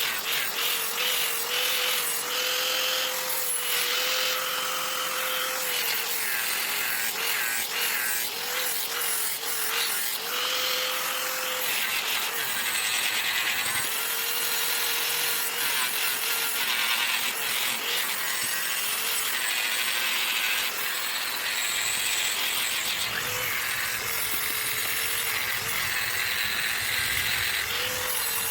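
An electric power tool running continuously, its motor tone sagging and recovering again and again as it is pressed into the work, under a harsh rasping from the cutting or grinding.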